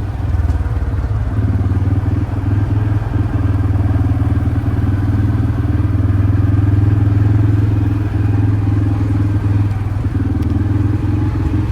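Quad bike engine running steadily under way.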